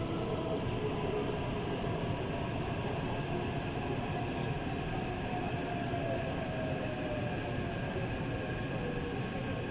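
Taipei Metro train running on the rails with a steady rumble. Its motor whine slowly falls in pitch as the train slows for the next station.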